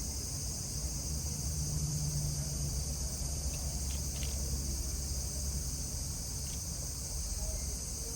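Steady high-pitched insect chorus droning without a break, over a low steady rumble, with a few faint ticks about four seconds in.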